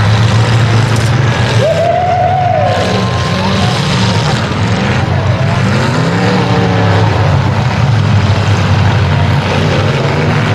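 Several demolition derby cars' engines running and revving together, their pitch rising and falling over a steady low drone.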